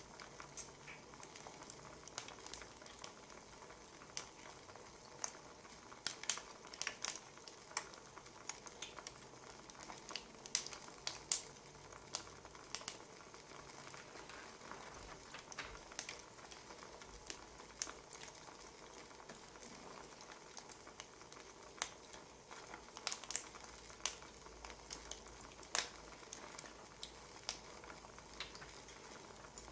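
Wood fire crackling: irregular sharp pops and snaps of burning firewood over a soft steady hiss, with bunches of louder pops now and then.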